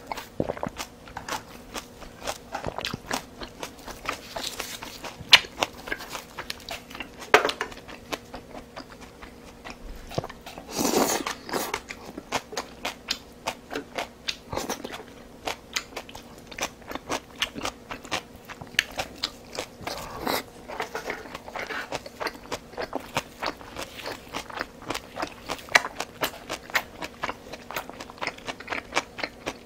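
Close-miked chewing and biting of rice and Korean side dishes: a steady run of small wet clicks and crunches, with a louder, longer mouth sound about eleven seconds in.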